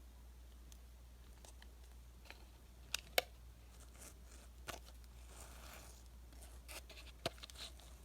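Plastic candy wrapper being handled and torn open: faint crinkling and rustling with a few sharp crackles, over a steady low hum.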